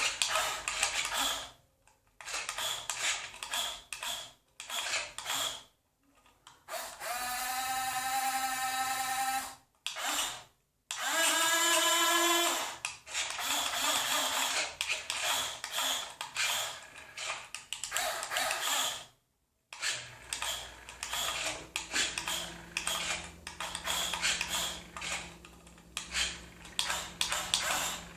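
Small electric motors and gearboxes of a radio-controlled model truck setup, whirring in many short stop-start bursts as it manoeuvres, with two longer steady whines of a couple of seconds each near the middle.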